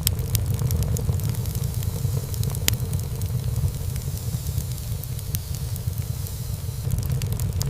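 Wood fire burning in a fireplace: a steady low rumble of flames with frequent small crackles and pops, one sharper pop about two and a half seconds in.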